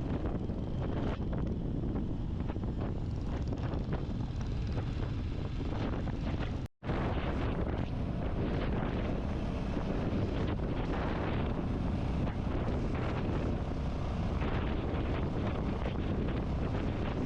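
Wind buffeting the camera microphone over the steady running of a Royal Enfield Classic 350's single-cylinder engine while riding at speed. The sound cuts out completely for a moment a little before halfway.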